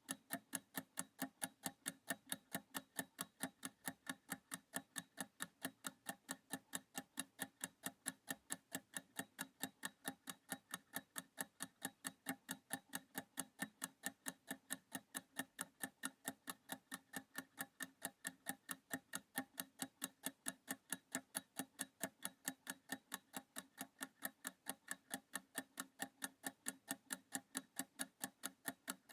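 Ticking clock sound effect marking a 30-second countdown timer, with steady, even ticks at about two a second.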